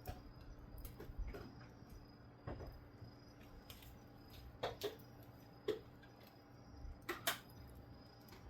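Wood fire crackling faintly, with sparse, irregular pops and snaps as firewood burns to light charcoal.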